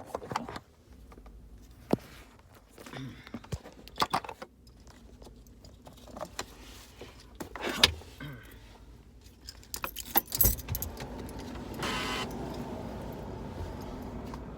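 Keys jangling among scattered clicks and knocks of handling, then a heavy thump about ten seconds in, after which a car's steady running hum sets in.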